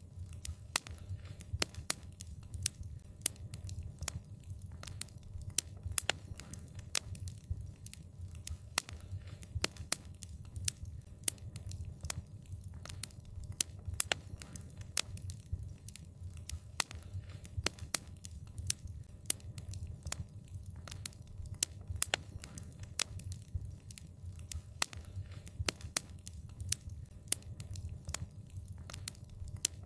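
Wood fire burning, with a steady low rumble and frequent sharp crackles and pops, several a second.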